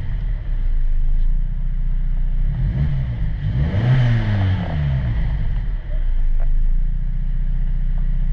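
Mazda CX-50's 2.5 L four-cylinder engine idling and revved twice, the revs rising and falling back to idle.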